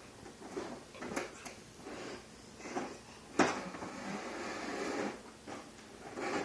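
Knocks and clatter from a toddler's push-along toy truck being walked across the floor, with a sharp bump about three and a half seconds in.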